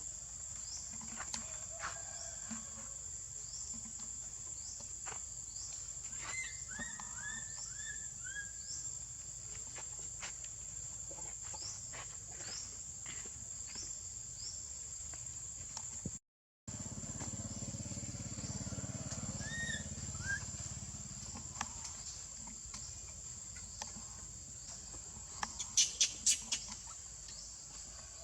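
Outdoor ambience dominated by a steady, high-pitched insect drone, with scattered short chirping calls over it. A string of falling calls comes a few seconds in, and a quick burst of sharp, high calls comes near the end. The sound drops out briefly just past the middle.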